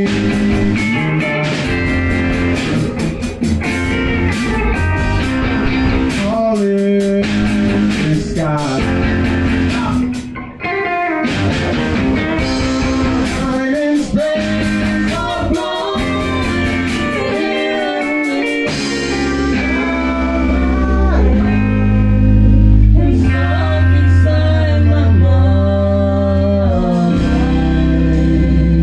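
Band rehearsal music led by guitar, with changing pitched lines and some bent notes. Deep bass notes grow much stronger about two-thirds of the way through.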